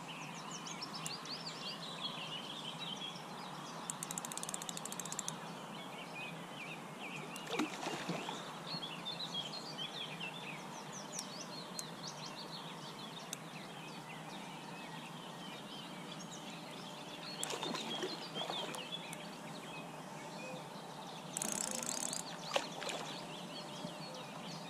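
Songbirds chirping and singing over a steady outdoor background hiss. A few brief, louder noisy moments come about 8, 18 and 22 seconds in.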